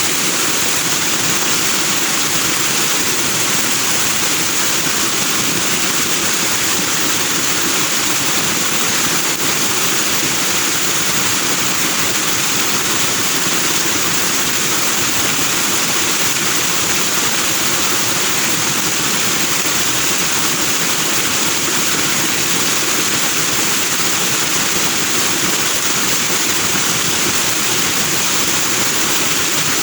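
Forest stream rushing over rocks into white foam, a steady, even rush of water with no breaks.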